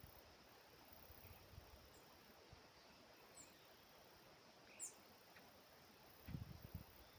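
Near silence: quiet outdoor ambience with three brief, high, falling chirps, most likely small birds. A low rumble comes in near the end.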